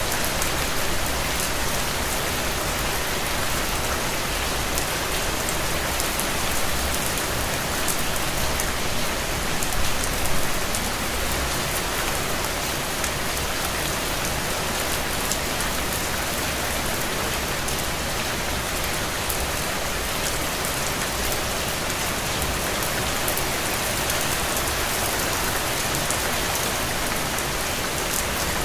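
Steady rain falling on a window: a dense, even hiss of drops with fine individual ticks, swelling slightly about ten seconds in.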